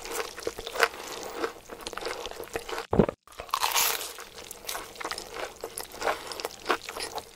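Crunchy ASMR-style biting and chewing foley for corn on the cob, a dense run of crisp crunches with one louder crack about three seconds in.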